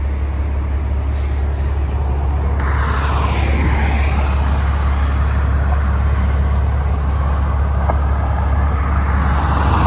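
Steady expressway traffic noise with a deep constant rumble, and a vehicle passing close by about three to four seconds in.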